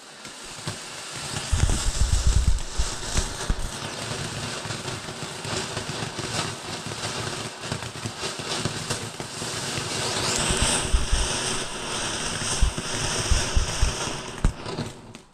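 Cosmic Fireworks Energy Storm firework fountain burning: a steady spraying hiss full of crackles. About ten seconds in, a rising high whistle comes in and holds until the fountain cuts out near the end.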